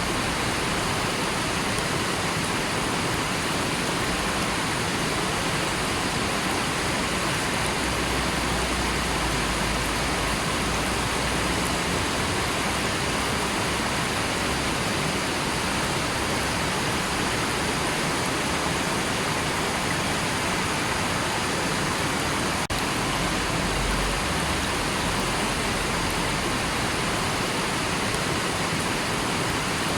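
River water flowing and rushing in a steady, even wash, with a momentary dip in level about two-thirds of the way through.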